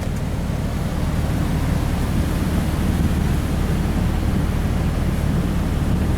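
Truck driving through about a foot of flood water: a steady rush of water spraying and washing under the tyres over a low, constant rumble.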